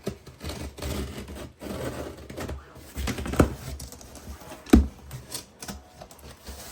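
Handling of a heavy cardboard box: irregular rustling, scraping and clicking with knocks, the sharpest about three and a half and nearly five seconds in.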